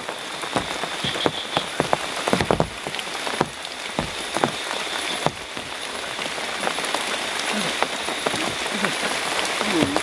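Heavy rain falling steadily, with frequent sharp drops striking irregularly close by.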